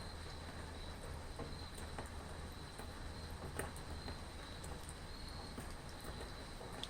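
Steady rain with scattered drops ticking close by, under a continuous high insect trill that sounds like crickets.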